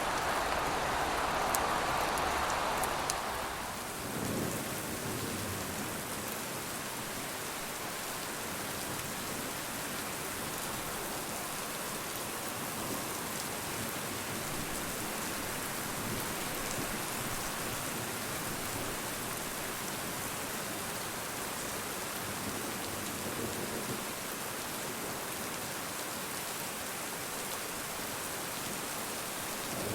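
Steady rain falling, a dense even hiss of drops, which changes in character and drops a little in level about four seconds in.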